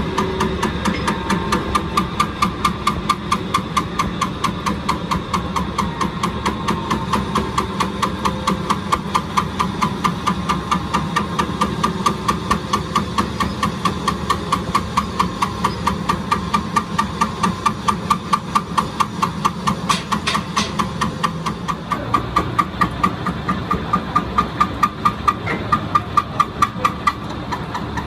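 A metalworking lathe running, with a regular sharp ticking knock about three to four times a second over a steady machine hum.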